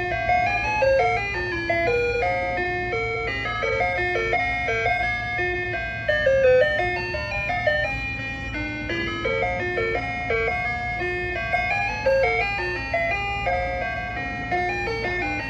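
Soft-serve ice cream truck's chime jingle: a simple melody of single notes playing over the truck's loudspeaker, starting over again about nine seconds in, above a steady low hum.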